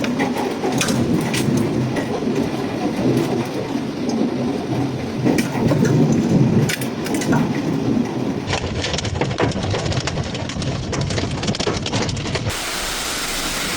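Thunderstorm with heavy rain and hail clattering on hard surfaces in many sharp clicks, and thunder rumbling through the first half. The sound changes abruptly about 8.5 and 12.5 seconds in, from one storm recording to another.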